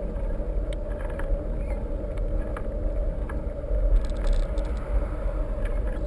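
Steady low rumble of motion or wind noise on the microphone, with scattered small clicks and rattles.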